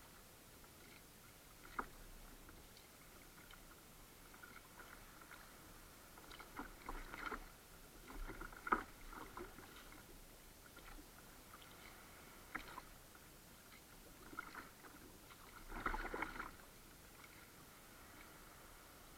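Kayak paddle working the water: intermittent faint splashes and drips, with a few sharp knocks, the loudest a little before halfway.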